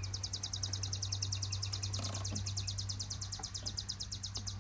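A bird's high, rapid trill of about a dozen even notes a second, held for about four and a half seconds, over a low steady hum.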